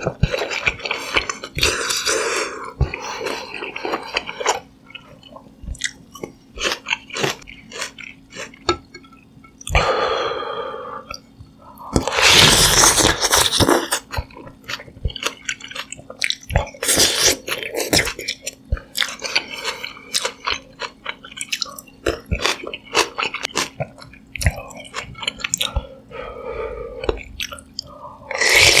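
Close-miked chewing and wet mouth sounds of someone eating sundae rice soup, with many small clicks and several longer, louder stretches of eating noise along the way.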